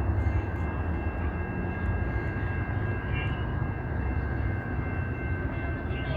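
Amtrak San Joaquins passenger train running past: a steady low rumble with a few faint, steady high-pitched tones over it.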